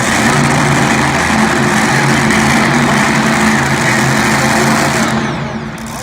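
Competition pulling tractor's engine running loud and steady at high revs, easing off about five seconds in.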